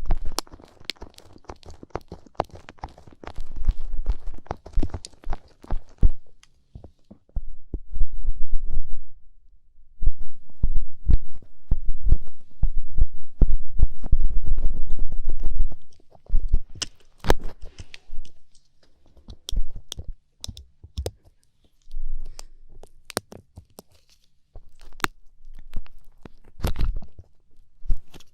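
A light-up ear pick scraping and scratching in an ear, very close, with crackling clicks and a low rumble. The scraping comes in bursts of a few seconds with short pauses between them.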